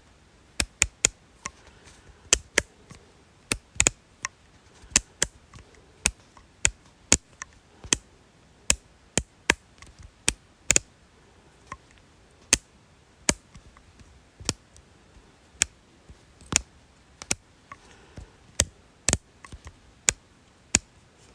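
A series of sharp single clicks at an uneven pace, about two a second, some much louder than others.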